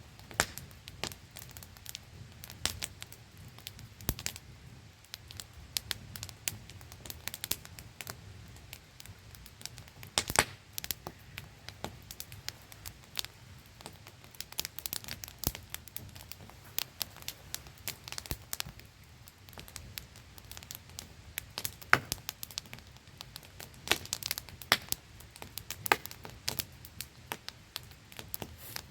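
Wood campfire crackling with irregular sharp pops, a few louder ones among them, over the steady static-like hiss of a small waterfall.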